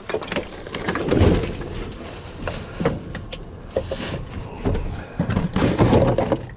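Irregular knocks, scrapes and clatters of a gutted sewing machine cabinet being handled and folded open among dumpster junk, with louder bangs about a second in and again near the end.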